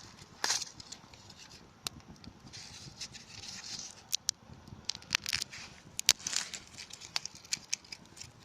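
Small campfire of sticks crackling, with irregular sharp pops and snaps, the loudest about six seconds in, over a light hiss.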